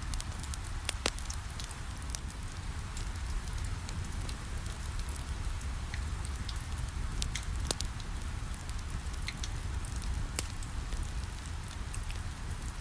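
Steady rain against a window with a low rumble underneath, mixed with a crackling wood fire whose scattered sharp pops and snaps come every second or so.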